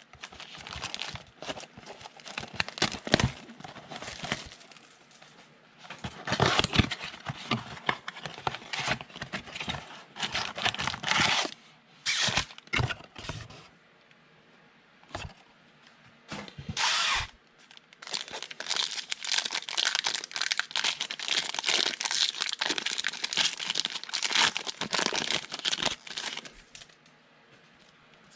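Plastic wrapping on a box and packs of trading cards crinkling and tearing as they are opened, in uneven bursts of rustling with a couple of short pauses.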